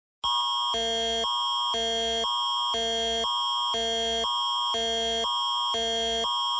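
Canadian Alert Ready emergency attention signal: two tone patterns alternating about every half second at a steady level. It is the alarm that announces an emergency alert broadcast, here a wildfire evacuation order.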